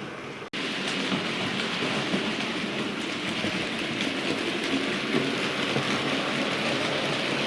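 Bachmann A1 Pacific model locomotive running on a model railway layout: a steady rushing whirr of the motor and wheels rolling on the track. It starts louder after a brief cut-out about half a second in.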